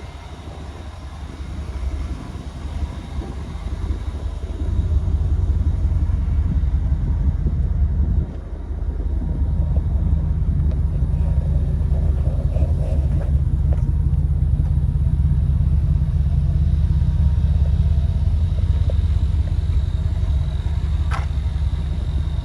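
The 5.0-litre Cobra V8 in a 1955 Ford F100 pickup running with a steady low exhaust rumble. It gets louder about four and a half seconds in and dips briefly about eight seconds in.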